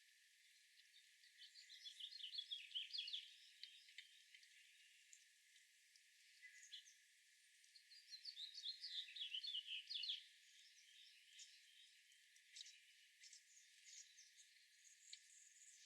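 Songbird singing faintly: two quick phrases of rapid high notes, about two seconds in and about eight seconds in, followed by scattered short chirps.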